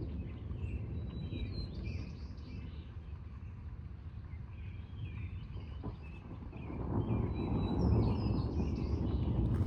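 Birds chirping over a low rumble that builds in the second half and holds near the end, the sound of distant thunder rolling.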